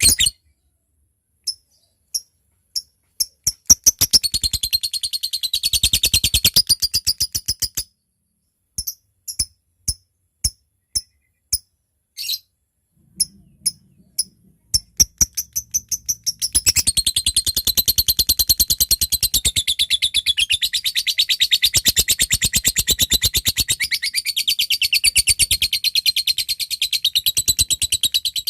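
Lovebird calling: sharp single ticking chirps ("ngetik") that break into long, fast, unbroken chattering runs ("ngekek panjang"). A short run comes about four seconds in, and a longer one starts past the middle and carries on.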